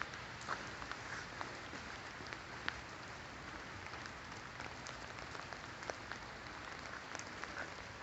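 Steady rain falling, with scattered drops ticking sharply close to the microphone.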